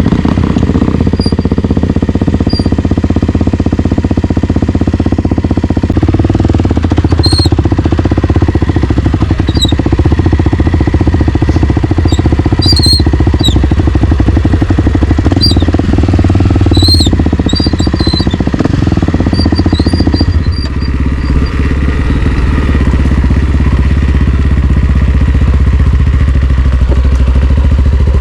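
Single-cylinder four-stroke dirt bike engine running under way on a trail, with the throttle changing; about two-thirds of the way through it settles to a lower, steadier note. Short high squeaks come through now and then.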